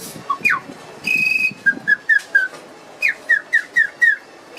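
Little rainforest bird-call whistle blown in a string of bird-like chirps: a falling whistled note, a short steady high note about a second in, then quick short chirps that turn into a fast run of about five falling chirps near the end.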